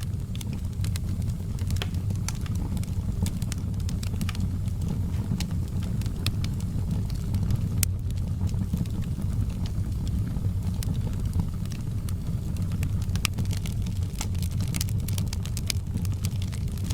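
Wood fire in a fireplace crackling: irregular sharp pops and snaps over a steady low rumble, with the pops coming thicker near the end.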